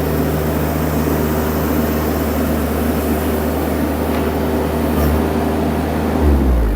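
Mini skid steer engine running steadily at high speed, then dropping in pitch about six seconds in as the revs come down.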